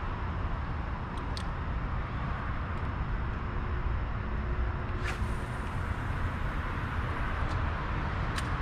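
Steady traffic rumble and road noise from the bridge overhead, with a few faint clicks scattered through it.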